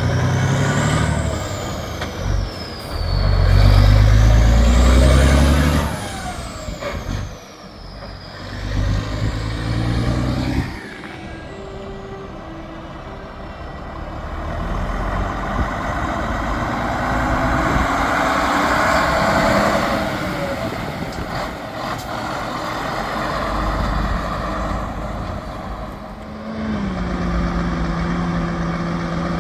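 Heavy trucks driving past with engines revving. A high whistle rises and falls three times over the first ten seconds, and a steady engine drone sets in near the end.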